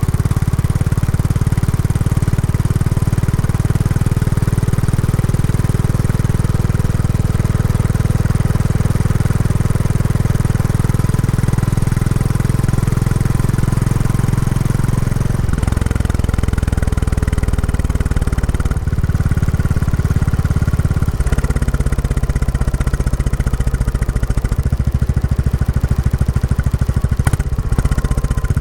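Royal Enfield Classic 350's single-cylinder engine through its stock exhaust, heard while riding during break-in. The note is steady, drops about halfway through and shifts again a few seconds later.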